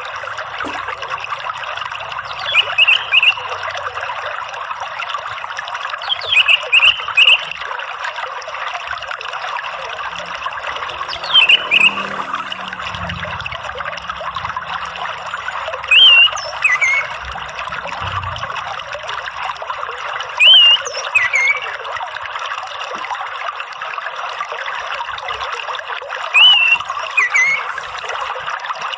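Running water trickling steadily. Over it an orange-headed thrush gives short, sharp call notes, often in pairs, six times about every four to five seconds.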